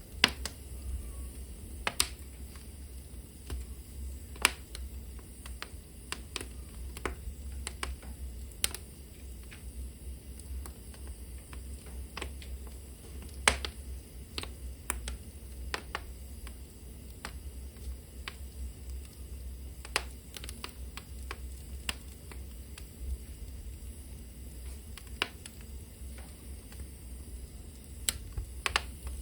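Burning wood crackling in a fireplace: sharp, irregular pops and snaps, a few of them loud, over a low steady rumble of the fire.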